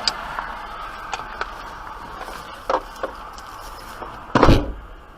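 Steady road noise inside a moving car, with a few light clicks and two knocks, then a loud thump about four and a half seconds in.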